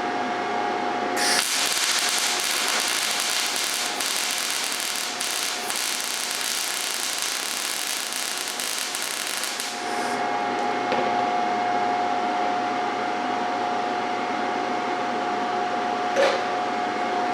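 MIG welder arc crackling as a small bead is run, starting about a second in and cutting off about ten seconds in. The wire feed speed is set too high, which the welder blames for how the bead ran.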